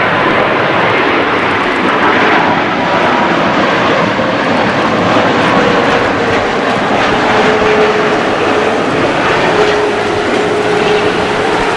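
Boeing 787-9 airliner's jet engines, heard loud and close. A steady roar carries a whining tone that falls slowly in pitch and then levels off near the end.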